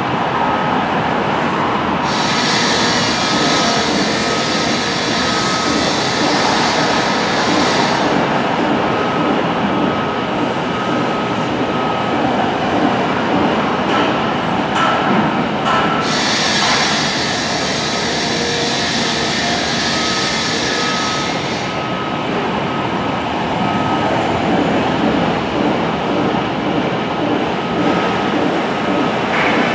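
Train running along the track, a steady rumble of rolling cars with a high hiss that comes in twice for several seconds.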